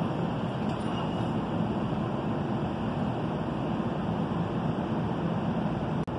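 NJ Transit bilevel commuter train standing at the station platform, giving off a steady, even hum with a low constant drone. The sound drops out briefly near the end.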